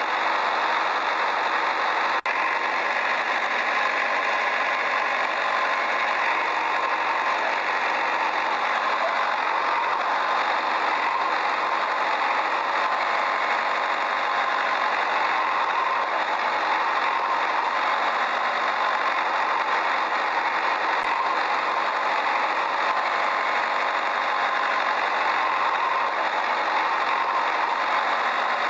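Steady engine-like running noise that does not change, with very little deep rumble. It cuts out for an instant about two seconds in.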